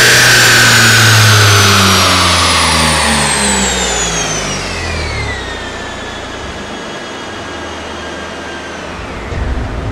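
Kia Stinger's 3.3-litre twin-turbo V6 through an AGR exhaust at the end of a dyno pull, its note falling away as the revs drop. The rear wheel and dyno roller then spin down with a whine that falls in pitch and fades. Music comes in near the end.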